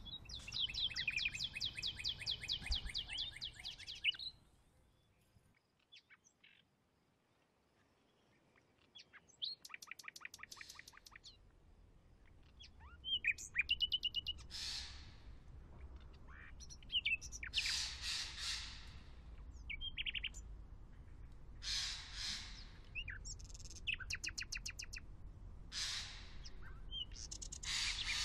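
Birds calling: rapid high trills at first, then harsh, rasping calls about a second long every few seconds, over a low rumble.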